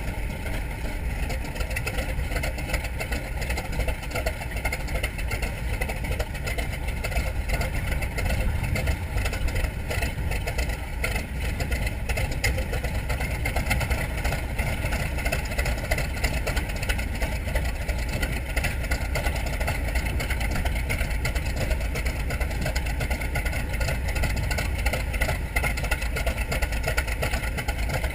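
Grumman TBM Avenger's Wright R-2600 fourteen-cylinder radial engine running steadily.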